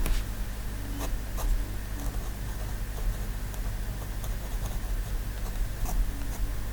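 Pen drawing on paper: short scratches and taps of the nib every second or so, over a steady low hum.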